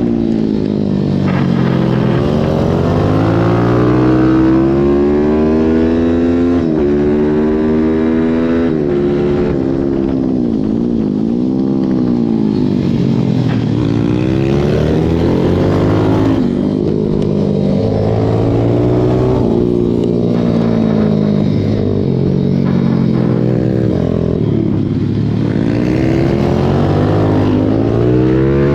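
Racing pit bike engine at full race pace from onboard: the pitch climbs under hard acceleration and drops suddenly at each upshift over the first several seconds, then repeatedly falls off and climbs again as the bike brakes and accelerates through corners.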